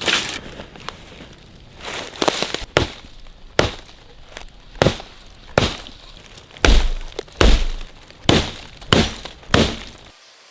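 A series of sharp knocks, about a dozen, roughly one every two-thirds of a second, two of them near the middle with a heavier thud.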